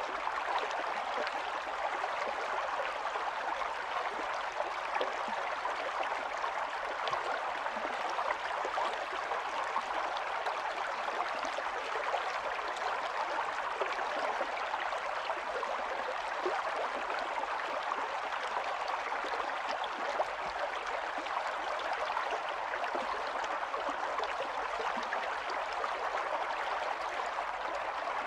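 A small stream running over stones: a steady, even babble and trickle of flowing water.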